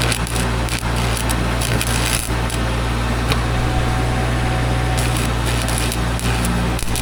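Electric arc welding: an irregular sputtering crackle while weld is built up on a cracked boom pin, over the steady hum of a running engine.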